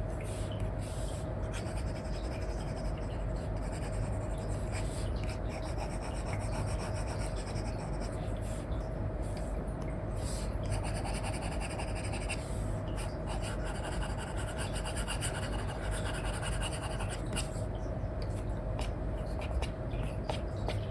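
Apple Pencil stylus tip scratching and rubbing across a paper-like screen film on an iPad in repeated short strokes, over a steady low hum.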